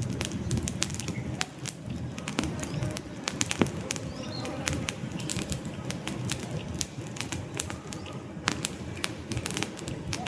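Wood fire crackling, with irregular sharp pops and snaps from the burning logs over the steady low rumble of the flames.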